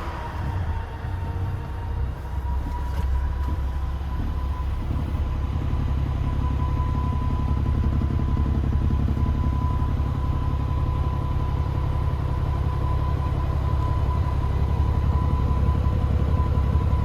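DAF CF460 tractor unit's Paccar 460 bhp Euro 6 diesel engine idling with a steady low rumble that grows fuller about five seconds in, over a thin steady high whine.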